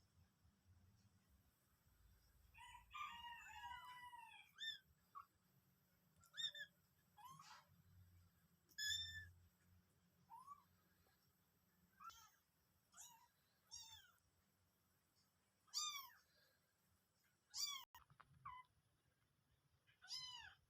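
A cat meowing over and over: short, high mews that rise and fall in pitch, one every second or two, with a quick run of overlapping mews about two to four seconds in.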